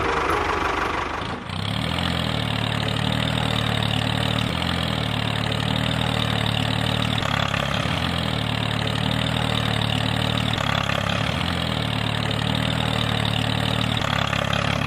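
An engine running steadily at idle, with a brief dip and change in its sound about a second and a half in.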